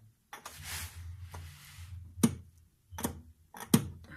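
A brief rustle, then three sharp clicks or knocks about a second apart, over a faint low hum.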